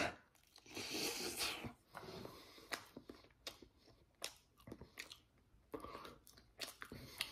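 Person chewing a first bite of a microwaved egg roll: faint, irregular chewing clicks and soft crunches.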